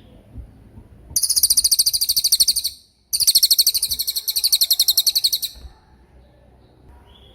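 Cililin songbird singing its rapid 'tembakan' song: two long, very rapid high-pitched trills of repeated notes with a brief break between them, then a faint call near the end.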